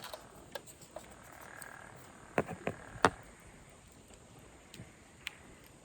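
Wood campfire crackling: scattered sharp pops, with three louder cracks in quick succession a little past the middle.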